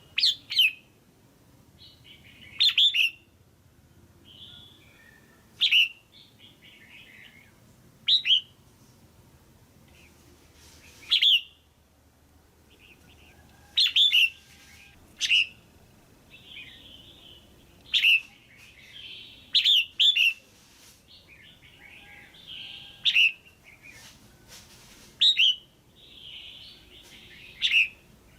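Female red-whiskered bulbul calling: short, loud, quickly falling notes repeated every two to three seconds, with softer chattering calls between them.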